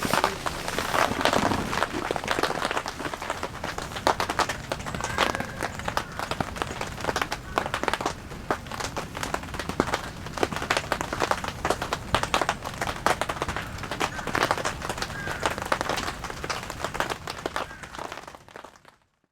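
Rain falling on a tent, a dense, even crackle of many small drops that fades out near the end.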